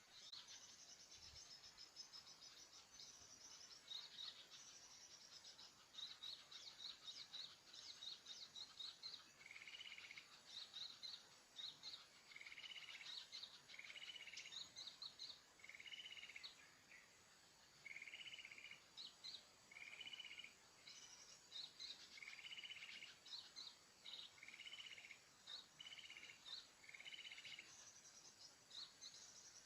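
Small birds calling: many short high chirps, and from about a third of the way in a repeated buzzy call roughly every one and a half to two seconds, ending shortly before the close.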